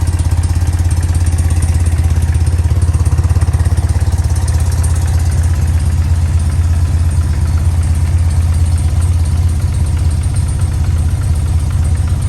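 1995 BMW R100GS Paris-Dakar's air-cooled boxer twin idling steadily with an even low pulse.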